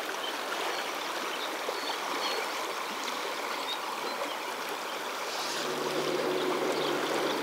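Steady rush of the fast-flowing current of the South Fork Snake River's side channel. A faint, low, steady hum joins it about five and a half seconds in.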